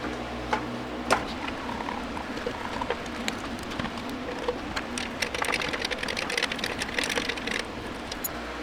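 Small clicks and rattles of screws and parts being handled while a mixer is taken apart, over a steady hiss. The clicking comes thick and fast about five seconds in and eases off near the end.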